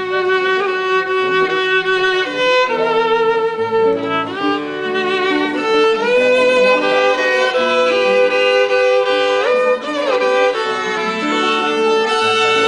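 Violin playing a hymn melody in held notes with wide vibrato, with a quick upward slide into a new note shortly before ten seconds in. Lower notes sound underneath.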